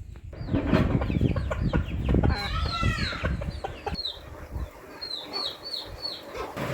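Chickens calling: a run of short, high, falling calls, several a second, starting about half a second in.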